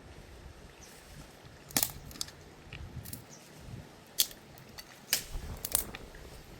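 A few scattered sharp clicks or snaps, about six in all, some in quick pairs, over a faint steady background.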